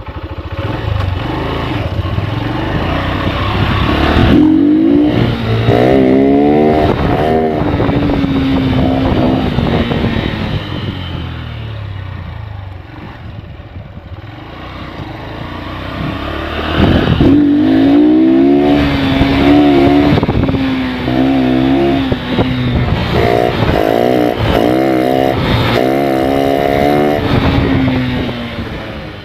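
Honda Livo's single-cylinder engine, with its sound modified, revved repeatedly: the pitch climbs and wavers with throttle blips, then settles back, in two long bouts.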